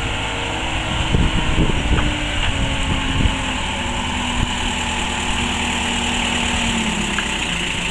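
Miniature railway locomotive's engine running steadily, with a few low knocks in the first few seconds.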